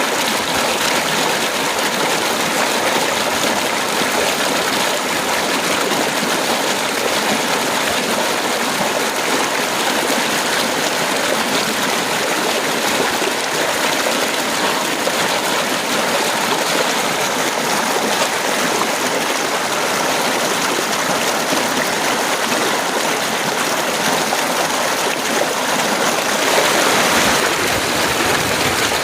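Heavy rain pouring steadily: a dense, even hiss with no thunder, swelling briefly a little before the end.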